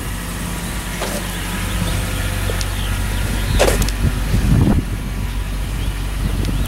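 Lexus SC400's 1UZ-FE V8 idling through aftermarket eBay mufflers, a steady low exhaust note, with a brief blip of the throttle a little past the middle.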